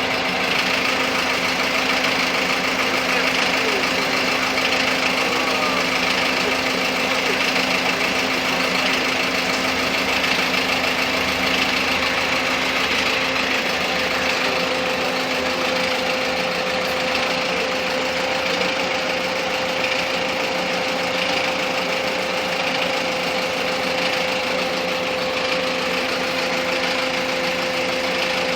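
Truck engine running steadily at idle, with a constant whine over the engine note.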